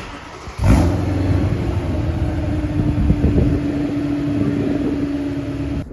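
BMW E92 M3's 4.0-litre V8 running with a loud exhaust. It comes in suddenly under a second in, holds steady, and cuts off just before the end.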